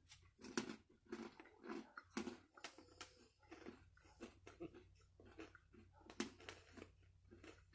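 Faint crunching of people chewing hard-shelled, barbecue-coated roasted peanuts, a steady run of crunches about three a second.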